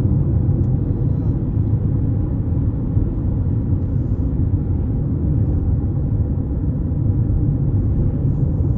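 Steady low rumble of a moving car: road and engine noise, even throughout.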